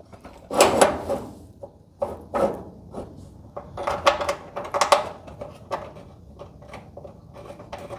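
Scattered clicks, clinks and light knocks of metal garage-door hinge hardware being handled while bolts are hand-threaded into the hinge, the loudest knock about a second in.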